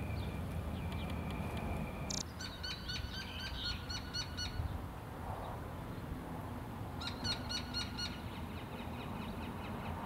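A bird calling in two quick runs of short repeated notes, about five or six a second: the first lasts about two seconds, the second about a second. Under the calls is a steady low outdoor rumble.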